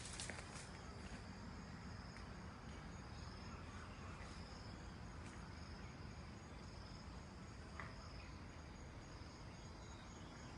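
Faint insects chirping in repeated short pulses over a low steady background hiss, with a few light clicks near the start.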